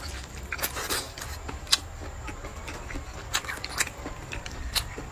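Someone eating, with chewing and a handful of scattered sharp clicks.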